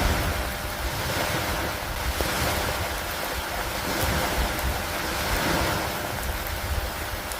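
Steady storm rain with wind, a continuous hiss over a low rumble that swells and eases gently, with no separate thunderclap.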